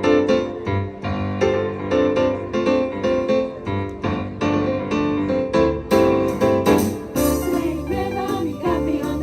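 Piano music played in a steady, bouncy rhythm. About six seconds in, bright percussion strikes join and the sound gets fuller.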